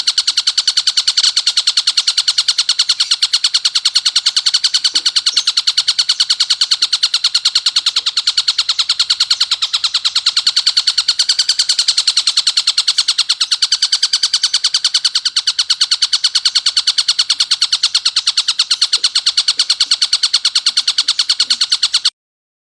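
Tengkek buto kingfisher giving a harsh, rapid rattling call, many notes a second in a dense unbroken stream. It stops abruptly near the end.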